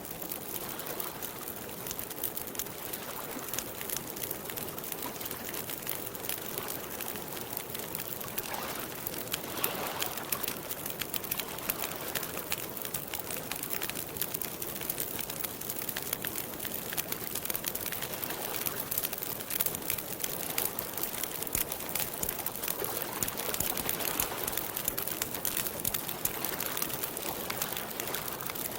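Campfire crackling with a steady stream of small pops, over water lapping at the lake shore.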